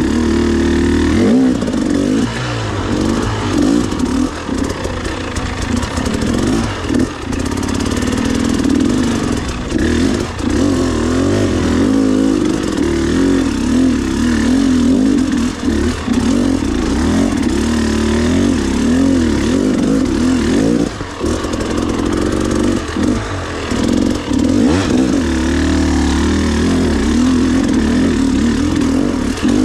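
Dirt bike engine running on a trail ride, its pitch rising and falling over and over as the throttle is opened and closed, with a few short dips where it is backed off.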